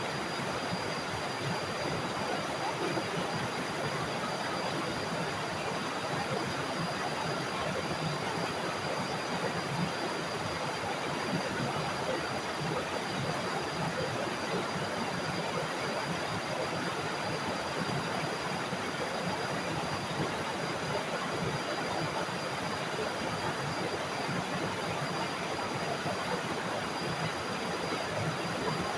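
Small forest waterfall: water falling and rushing in a steady, unbroken splash.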